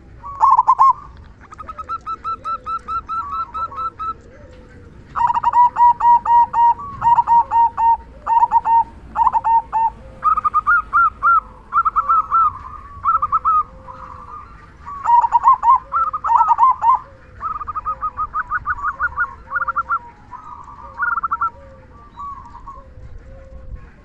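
Zebra dove (perkutut) cooing loudly in rapid staccato runs of notes, each run a few seconds long with short pauses between. A fainter, lower call repeats about once a second underneath.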